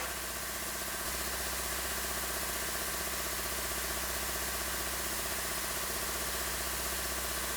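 A steady mechanical hum, like a motor running at constant speed, unchanging throughout, with no knocks or tool strikes.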